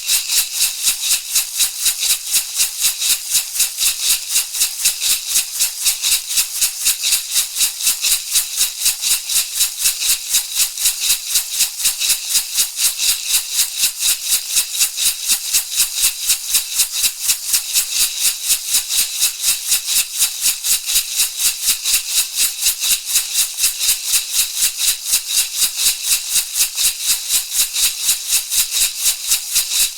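Shamanic rattle shaken in a fast, steady, even rhythm, each stroke a crisp, bright rattle of seeds or beads.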